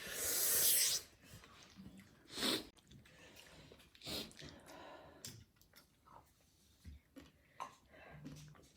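Mouth and nose sounds of someone eating very spicy noodles: a sharp hissing breath lasting about a second, then scattered short sniffs and chewing sounds.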